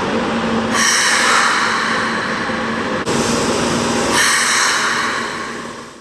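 Keikyu train brake releasing: a sudden loud hiss of air twice, about a second in and again about four seconds in, over a steady low hum, fading out at the end.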